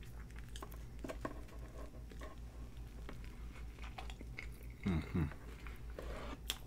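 Close-miked biting and chewing of a fast-food burger stuffed with french fries: soft crunches and wet mouth clicks, with a short hum from the eater about five seconds in.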